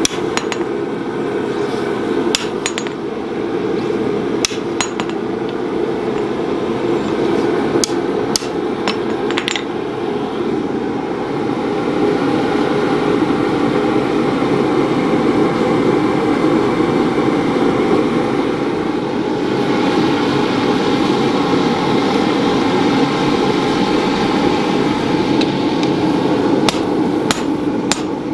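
Hand hammer striking a red-hot naginata blade of bloom steel on an anvil while its bevels are forged. The blows come in small pairs and clusters in the first ten seconds, stop for a long stretch, then return near the end, all over a steady rushing noise.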